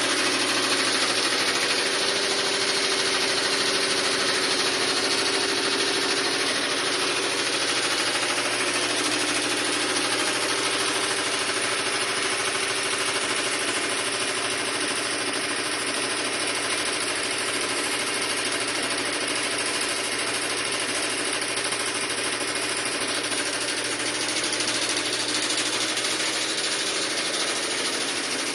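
Sharp washing machine running: a steady, unbroken mechanical noise with a low motor hum.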